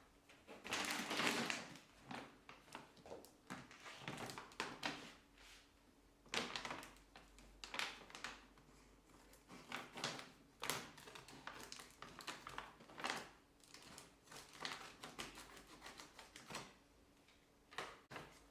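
Irregular household handling sounds: a string of short rustles and light knocks, the loudest about a second in.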